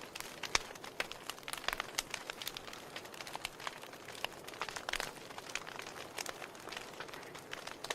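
Wood fire burning in a fireplace: irregular sharp crackles and pops of burning logs over a soft steady hiss, the loudest pop about half a second in.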